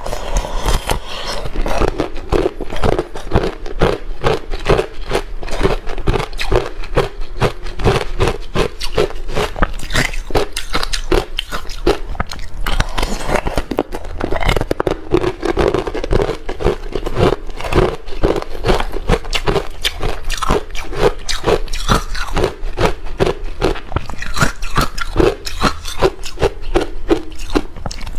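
A person chewing crunchy ice cubes, with a rapid, unbroken run of crunches and crackles.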